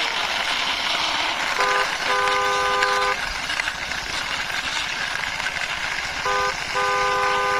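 Vehicle horn tooting twice in a pattern, a short toot then a longer one of about a second, starting about one and a half seconds in and again about six seconds in, over a steady rushing vehicle noise.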